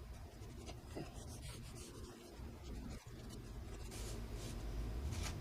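A series of short, irregular scratching strokes, about two or three a second, over a low steady hum.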